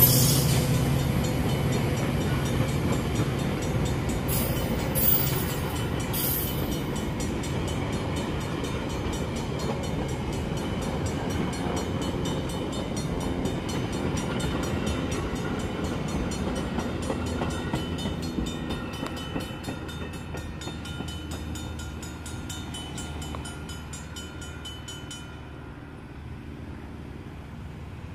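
Metra commuter train's bilevel passenger cars rolling past, with a steady rumble and rattle of wheels on rail. A few sharp clacks come about four to six seconds in, and the noise gradually fades as the train moves away.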